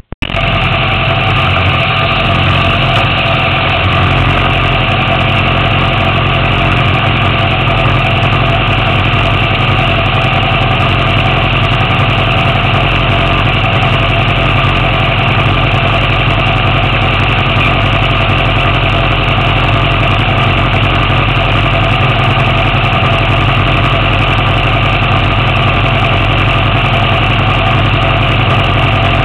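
Honda CBR1000RR's inline-four engine idling steadily, with no revving.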